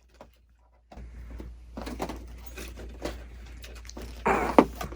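Gift wrapping paper and a cardboard box being torn open by hand: irregular rips and rustles, the loudest and longest a little after four seconds in.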